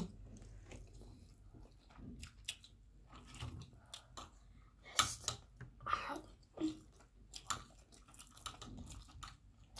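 Close-up eating sounds: people chewing rice and stew, with scattered short clicks of a spoon and fork against the plates. The loudest click comes about five seconds in.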